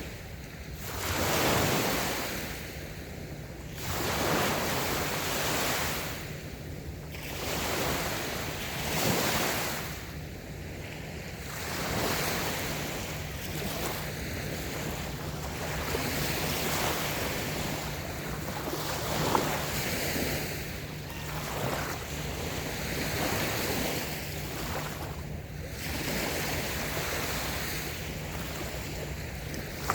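Small, gentle waves breaking and washing up on a sandy beach, each one rising and falling away every two to three seconds.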